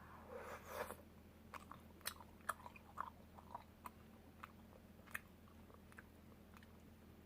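Faint close-up eating sounds of someone chewing soup tteokbokki rice cakes. A short rushing noise comes about half a second in, then a string of wet mouth clicks and smacks over the next few seconds.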